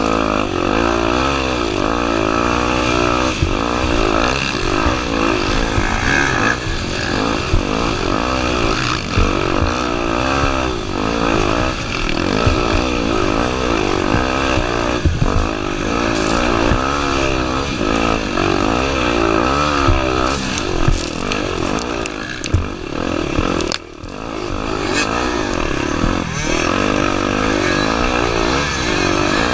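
Honda Tornado 250's single-cylinder four-stroke engine being ridden hard, its revs climbing and falling over and over, with scattered knocks and clatter. About two-thirds through, the sound drops out briefly and then picks up again.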